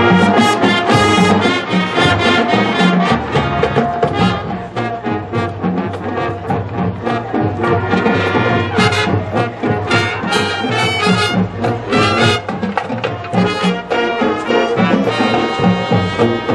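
Marching band brass section playing an upbeat 1970s funk tune, striking up all at once and playing on loudly with rhythmic, punchy horn notes.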